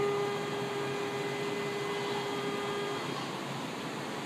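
A single steady warning tone from a standing CPTM Série 1700 electric train, starting suddenly and stopping after about three seconds, over a steady hiss from the train and platform.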